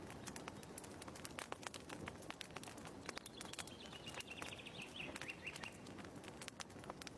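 Wood fire crackling with irregular sharp pops, and a short bird trill about three seconds in.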